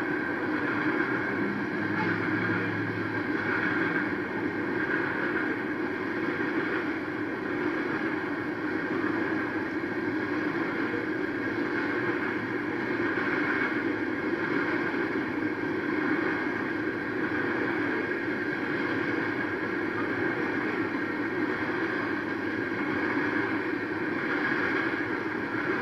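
Freight train cars rolling past a grade crossing at a steady pace, a continuous even noise of wheels on rail.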